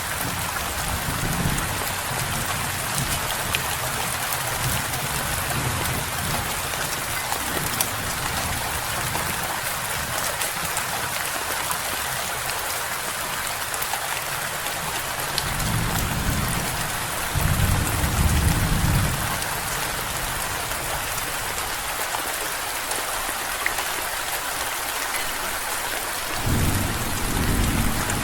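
Steady rain hiss with deep rolls of distant thunder: two low rumbles a little past halfway, and another building near the end.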